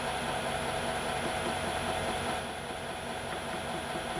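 Metal lathe running at a slow belt speed: a steady motor and drive hum, dipping slightly about two and a half seconds in.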